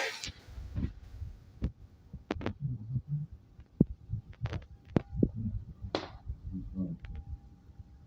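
A dog playing with an ice cube: irregular sharp clicks and dull knocks, a few each second, with a short scrape-like burst about six seconds in.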